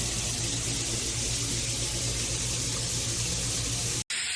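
Water spraying steadily from a filtered shower head, with a steady low hum beneath it. An abrupt break near the end, after which the spray goes on with less of the hum.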